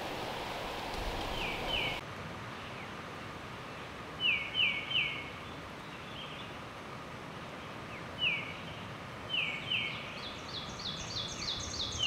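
Forest birds calling: short down-slurred notes in twos and threes, coming every few seconds, joined near the end by a quicker run of higher notes from a second bird.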